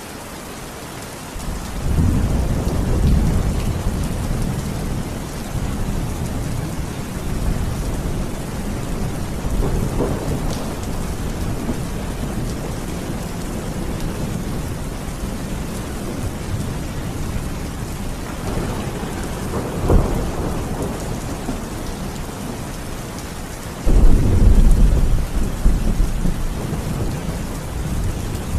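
Steady heavy rain with rolling thunder. A low rumble swells a second or two in, a sharper clap comes about two-thirds of the way through, and a sudden, louder thunderclap rolls in near the end.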